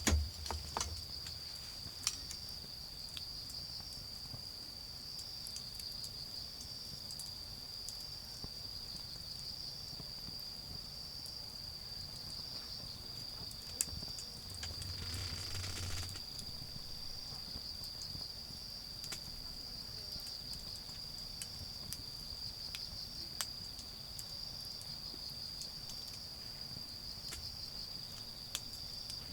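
Autumn crickets trilling steadily at a high pitch, with scattered sharp pops from a crackling wood fire. About halfway through, a brief low rumbling rush rises and fades.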